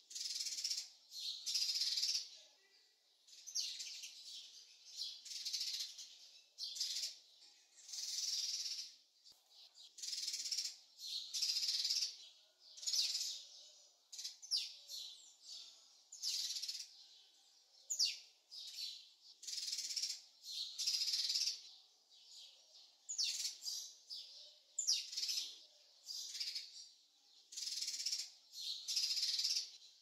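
Birds singing, with short chirping phrases repeated about once a second. A few of the phrases have quick downward-sliding notes.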